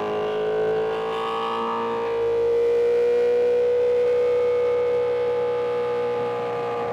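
Inline-four sportbike engine held at high revs, its pitch climbing slowly over the first few seconds and then holding steady. It gets louder about two seconds in.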